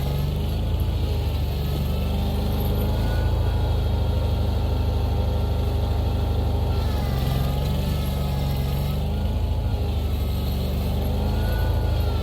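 Vehicle engine running steadily, its pitch dipping and rising slightly a few times.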